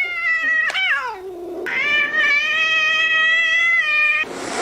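A cat yowling in two long, drawn-out meows: the first rises briefly and falls away about a second in, and the second is held at a steady pitch for over two seconds before cutting off near the end.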